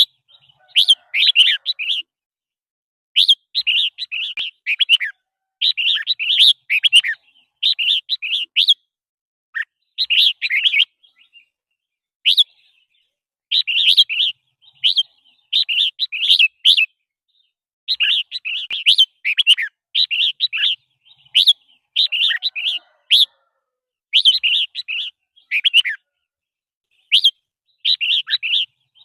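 Red-whiskered bulbul singing: short, bright warbled phrases about a second long, repeated with brief pauses between them.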